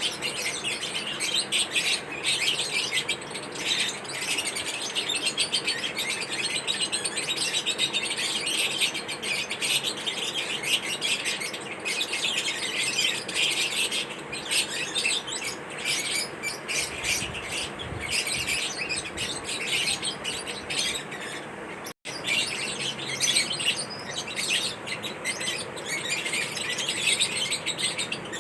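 Several pet lovebirds chirping continuously, many rapid high-pitched calls overlapping. There is a momentary break about three-quarters of the way through.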